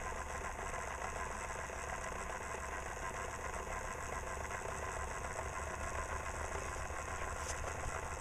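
Small 9-volt electric motor running steadily, turning a 1/6-scale ERTL John Deere Model E model engine through a rubber-band belt on its drive pulley. It makes an even mechanical whir with no change in speed.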